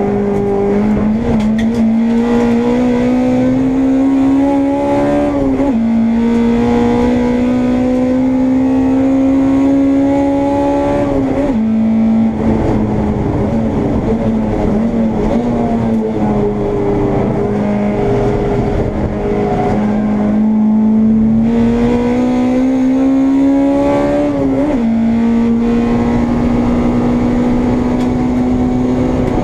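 Honda Integra race car's engine heard from inside the car at racing speed: the revs climb steadily in each gear and drop sharply at three upshifts, with the revs easing off and falling for a few seconds in the middle before climbing again.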